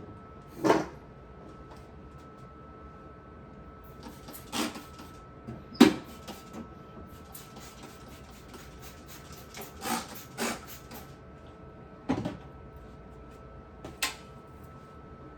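Irregular knocks and clunks of hard objects being handled and set down, about seven in all, the loudest about a second in and near six seconds in.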